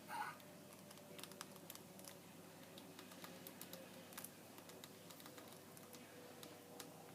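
Faint, irregular clicking and tapping from pet rats moving about and handling food in their cage, with one brief louder sound just at the start.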